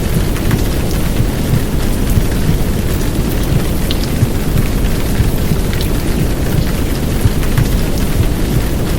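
Heavy downpour rain with a dense, steady low rumble of womb-sound white noise beneath it, and scattered faint drop ticks on top.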